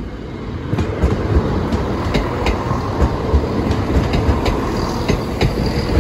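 East Midlands Railway Class 170 Turbostar diesel multiple unit passing close by at speed, its wheels clicking in a quick, steady rhythm under a continuous rumble. The sound grows louder about a second in as the front of the train comes past.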